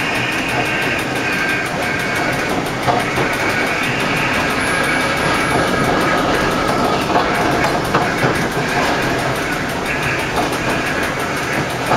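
Metre-gauge electric mountain railcar running along the track, with steady running noise, a high whine that comes and goes, and a few sharp clicks of the wheels on the rails.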